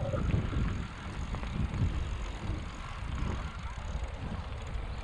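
Wind buffeting the microphone over the low, uneven rumble of bicycle riding on a bumpy path.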